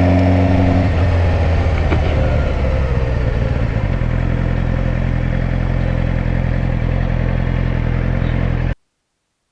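Sport motorcycle engine running while riding. The engine note drops about a second in, then holds steady, and the sound cuts off abruptly near the end.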